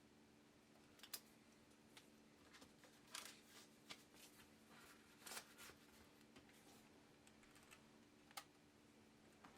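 Faint handling noises of leatherwork at a bench: a few brief clicks and short scrapes, scattered irregularly over a low steady hum.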